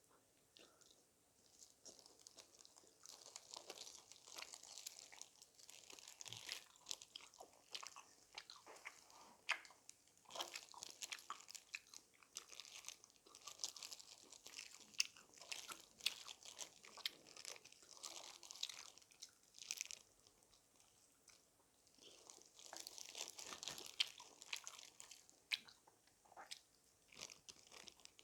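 Close-miked crunching and chewing of crispy fried chicken: bites into the crackling coating come in bunches of sharp crunches, with quieter chewing between them.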